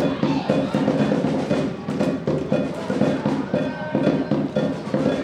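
Football supporters' band playing music with a steady drum beat.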